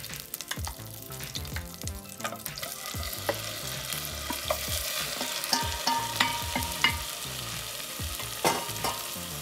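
Prawns sizzling in bubbling melted butter in a nonstick saucepan. The frying grows louder as the prawns are tipped in a few seconds in, and a wooden spoon knocks and scrapes against the pan as they are stirred.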